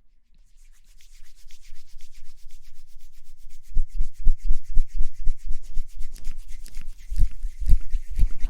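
Fast rubbing strokes directly on a microphone, about eight a second, as in ASMR rustling or hair-washing sounds. About four seconds in the strokes get louder, with deep thuds from the microphone being handled.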